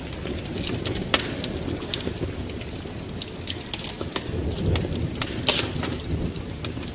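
Wood fire crackling in a fireplace: irregular sharp pops and snaps over a steady low rumble of burning, with louder pops about a second in and again near the end.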